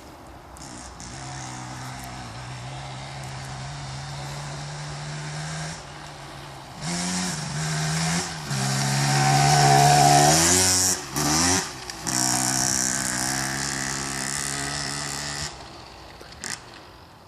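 Motocross motorcycle engine running on a track, revving up and down with the throttle. It is loudest a little past the middle, where the throttle is briefly chopped twice, then holds steady before fading near the end.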